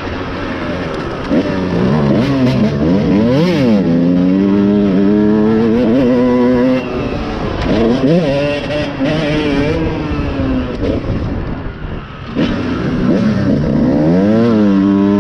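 Dirt bike engine revving up and down as it is ridden, its pitch climbing and dropping repeatedly with throttle and gear changes, easing off briefly a couple of times.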